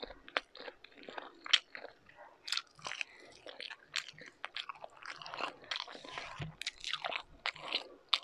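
Close-miked chewing of beef tapa and rice: an irregular run of wet mouth clicks and smacks as the food is bitten and chewed.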